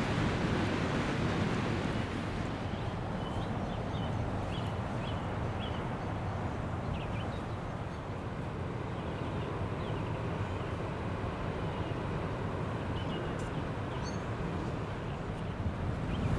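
Steady low rumbling noise, with short high bird chirps over it in two spells.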